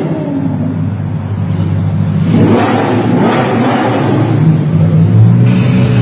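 A car engine runs and revs loudly and gets louder from about two seconds in, with a strong engine note near the end.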